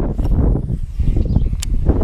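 Gusty wind buffeting the microphone, an uneven low rumble that rises and falls, with a sharp click about one and a half seconds in.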